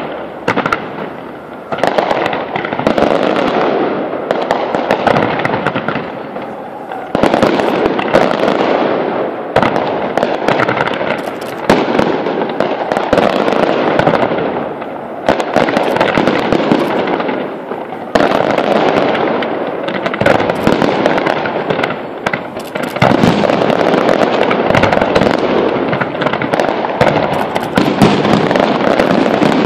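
Fireworks display: a continuous barrage of rapid bangs and crackling from comets and aerial shells, swelling louder several times, heaviest in the last few seconds.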